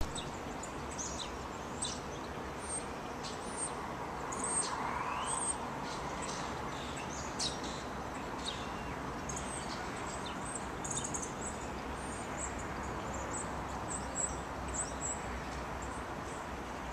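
Several small songbirds chirping and twittering in short high calls scattered throughout, over a steady outdoor background hiss that swells briefly about four to five seconds in.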